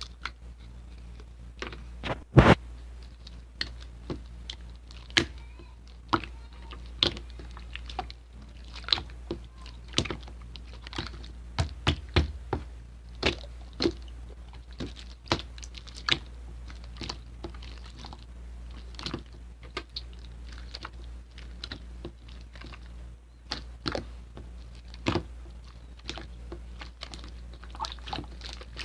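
Irregular light taps and clicks, about one or two a second, with one louder knock a couple of seconds in, over a low steady hum.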